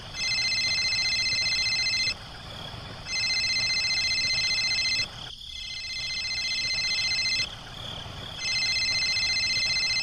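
Electronic telephone ringtone, a warbling multi-tone ring repeating in bursts of about two seconds with short gaps.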